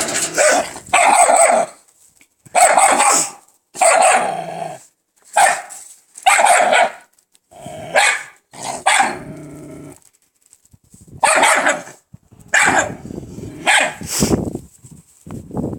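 A dog barking loudly, about a dozen barks roughly a second apart, some in quick pairs: a guard dog warning off a stray dog.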